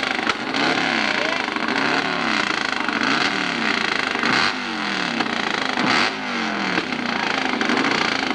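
Hillclimb motorcycle engine revving hard, its pitch climbing and dropping again and again, about once or twice a second.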